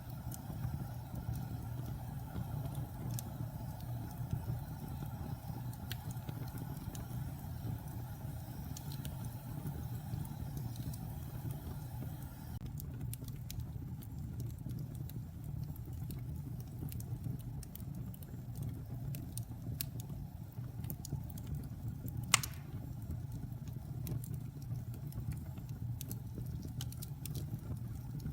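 Wood fire burning in a fireplace: a steady low rumble with scattered small crackles, and one sharp pop about three-quarters of the way through.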